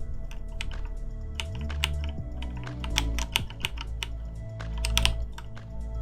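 Computer keyboard keys clicking in irregular clusters, over quiet background music with a low bass line.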